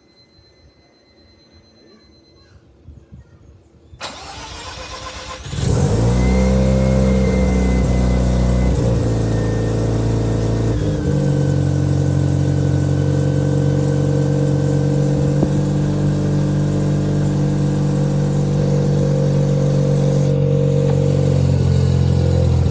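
Mazda RX-7's twin-rotor rotary engine cold-starting: after about four seconds of low sound it cranks for a second or so, catches, and runs at a steady, loud fast idle, its note shifting a couple of times in the first seconds before holding.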